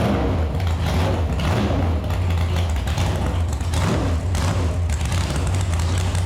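496 cubic-inch stroker big-block V8 running through open 2.5-inch stainless zoomie headers, a steady, heavy exhaust note with a few brief swells from throttle blips.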